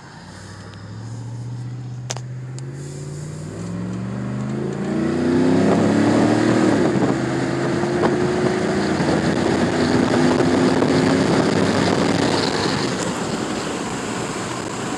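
5.7-litre HEMI V8 with a mid-muffler delete accelerating hard from a standstill, its exhaust note climbing in pitch in several steps through the gears and getting louder. After about six seconds it levels off into a steady, loud cruise that eases slightly toward the end.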